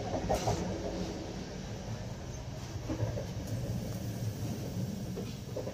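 Steady rumble of a moving passenger train, heard from inside the coach.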